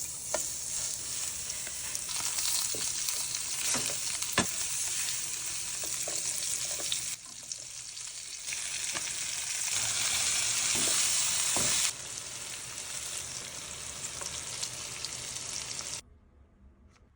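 Food sizzling and frying in a hot pan, with occasional sharp taps and scrapes of a utensil being stirred through it. The sizzle changes loudness abruptly several times and drops away about 16 seconds in.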